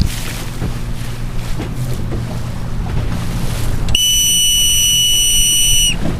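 Wind buffeting the microphone over water noise and a low rumble. About four seconds in, a steady high-pitched electronic-sounding beep is held for about two seconds, then cuts off.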